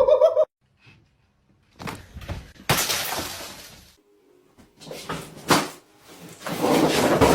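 Several loud crashing, clattering noises of something breaking. The loudest comes about three seconds in and dies away over about a second, with more crashes near the end.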